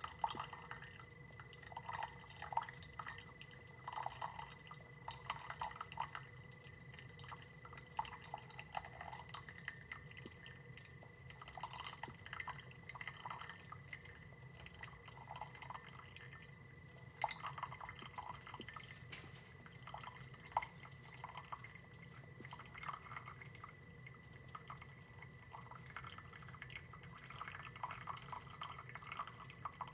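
Single-serve coffee maker brewing, coffee dripping irregularly into the cup over a faint steady hum.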